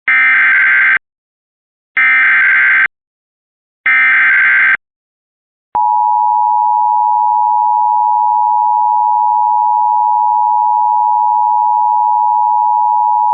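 Emergency Alert System header: three short buzzy digital data bursts about two seconds apart, followed by a steady two-tone attention signal held for about eight seconds, heralding a severe thunderstorm warning.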